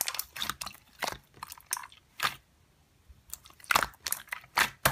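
Slime being squeezed and pressed by hand, a run of crisp crackling clicks with a pause of about a second in the middle.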